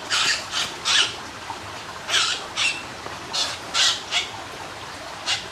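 A bird stuck in a birdlime snare giving about eight short, harsh squawks at uneven intervals.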